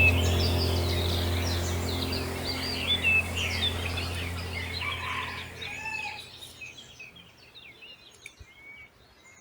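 Many birds chirping and calling over a steady low hum, the whole fading out gradually until only a few faint chirps remain near the end.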